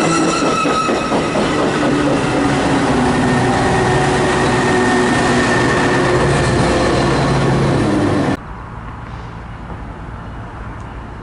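Metra commuter train arriving at a station platform: steel wheels and brakes on the rails, with several shifting squeal tones as it slows. The sound cuts off abruptly about eight seconds in, leaving a much quieter steady background.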